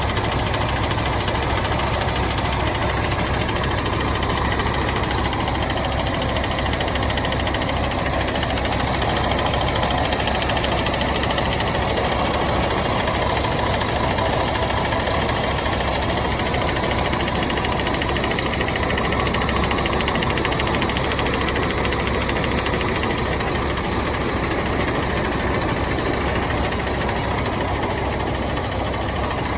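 A bus's diesel engine running steadily at idle while it warms up.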